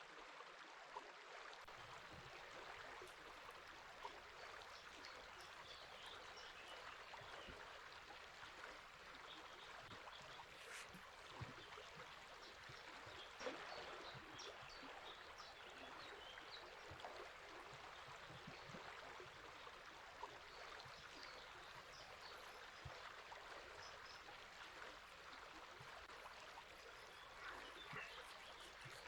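River water running steadily and quietly, with faint, scattered bird chirps over it.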